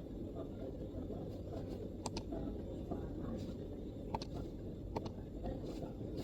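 Scattered MacBook keystrokes, a few separate key clicks spaced a second or more apart, over a steady low background rumble.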